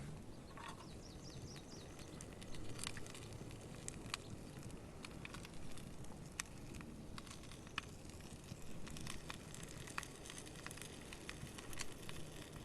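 Wood campfire crackling with scattered sharp pops, over a faint steady sizzle of vegetables frying in oil in a pan on the grill.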